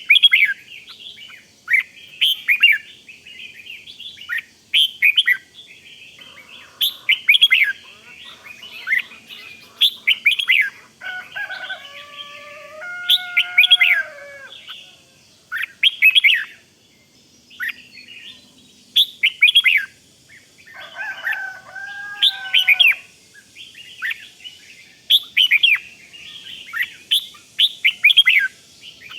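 Red-whiskered bulbul calling: bursts of short, sharp high chirps, the excited 'rik' call, come every second or two. Twice, about a third and two-thirds of the way in, a lower, longer whistled phrase joins in.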